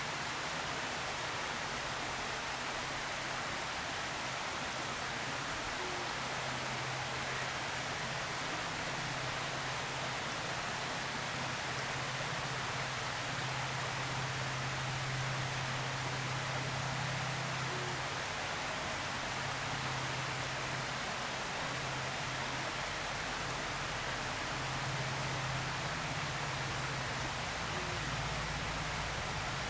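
Steady hiss with a faint low hum that comes and goes.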